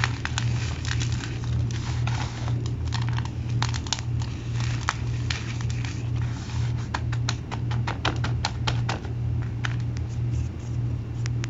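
Mini chunks of cornstarch being crushed by hand, giving a dense run of sharp, irregular crunches and crackles with a squeaky edge, over a steady low hum.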